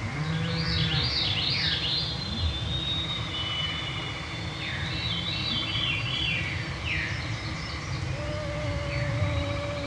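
Songbirds singing in an evening forest chorus: two phrases of quick, descending, flutey notes. A steady high whine of mosquitoes comes back near the end, over a constant low rumble.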